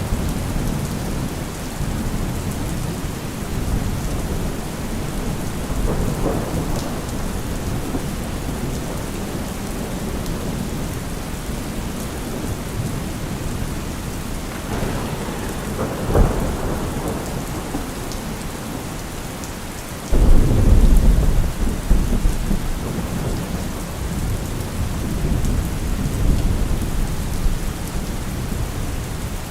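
Heavy rain pouring steadily, with deep low rumbles swelling several times; the loudest starts suddenly about two-thirds of the way through and fades slowly.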